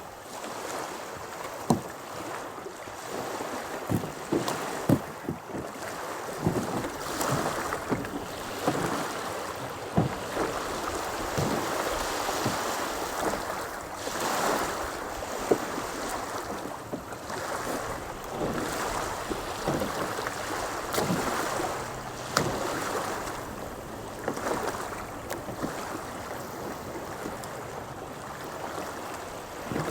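Small waves lapping at a lakeshore, with wind noise on the microphone and irregular sharp knocks throughout.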